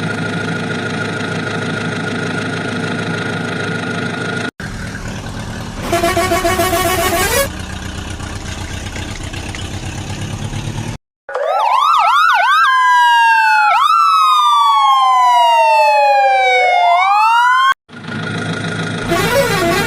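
Police siren sound: a steady vehicle drone with a brief fast warble, then a clean electronic siren that yelps quickly and goes into a long falling and rising wail, in separate short segments with abrupt cuts between them.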